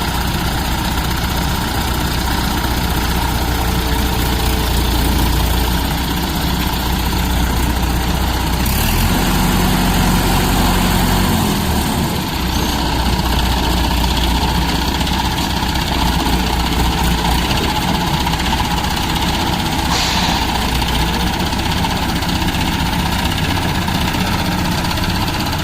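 Heavy construction machine's diesel engine running steadily at a low, idle-like speed. About nine seconds in its note shifts briefly, and a single click comes near the end.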